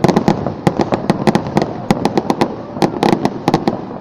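Aerial fireworks bursting: a rapid, irregular string of sharp bangs and cracks, about six a second, over a continuous rumble.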